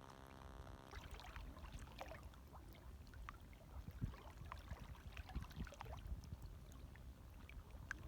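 Small, gentle waves lapping and sloshing, faint, in irregular little splashes with soft low thuds.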